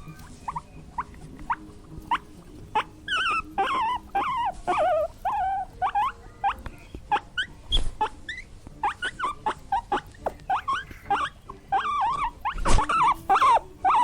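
Small animals squeaking: short, high calls that bend in pitch, sparse at first and coming thick and fast from about three seconds in. There are a couple of brief knocks among them.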